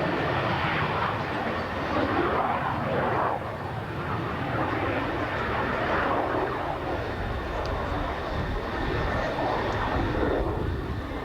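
Aircraft flying past: a loud, steady rushing engine noise.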